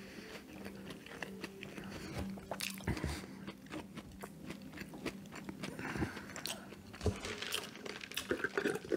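A person chewing and biting fast food close to the microphone: a stream of short, sharp mouth clicks and bites. A faint steady hum runs underneath.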